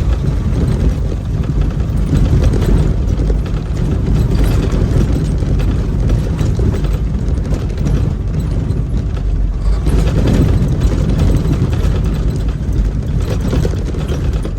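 Semi truck's diesel engine and road noise heard from inside the cab while driving: a steady, loud, low rumble.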